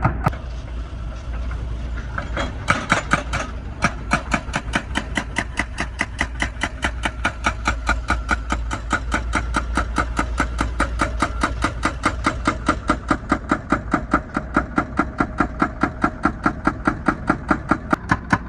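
Hydraulic breaker on a wheeled excavator hammering asphalt in a fast, even rhythm of about five to six blows a second, over the steady drone of the diesel engine. The hammering stops briefly just after the start and resumes about two and a half seconds in.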